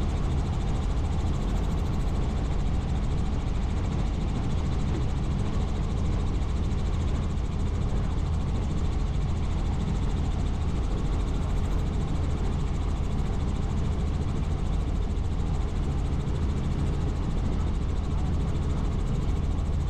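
Helicopter in flight, its engine and rotor giving a steady, unchanging drone with a low hum.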